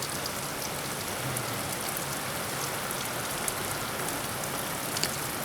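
Heavy rain falling steadily as an even hiss, with scattered louder ticks of single drops hitting nearby.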